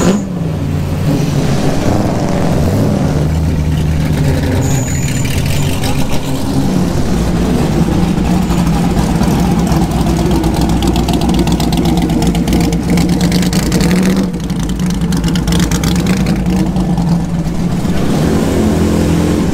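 Racing AC Cobras' V8 engines idling with a steady, lumpy beat as the cars crawl past one after another, blipped up in pitch twice in the first seven seconds. A Jaguar E-type's straight-six joins in near the end.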